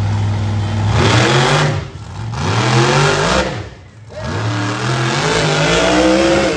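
Monster truck engine revving hard in three surges, each rising in pitch before it drops back, over a low idle about a second in.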